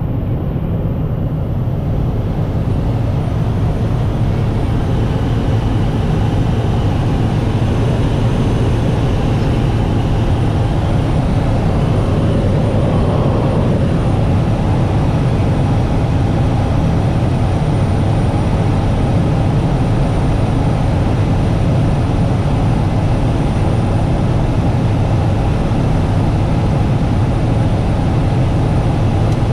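Steady, unbroken engine drone of an aircraft in flight.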